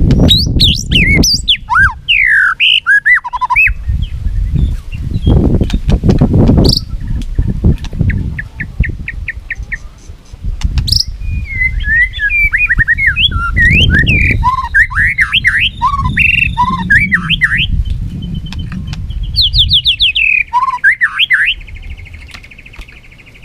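White-rumped shama singing its competition song: a loud, varied run of whistles, slurred up-and-down notes and quick trills, with a fast rattling trill of about eight notes a second near the middle and another near the end. A low rumble runs underneath the song.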